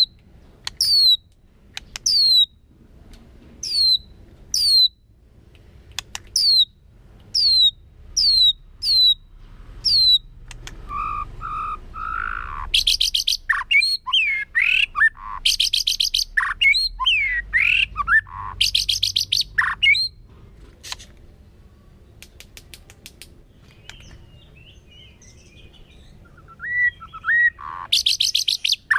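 White-rumped shama calling and singing: first a run of about a dozen sharp calls, each sweeping down in pitch. Then come varied song phrases of whistles and fast trills, a lull, and more song near the end.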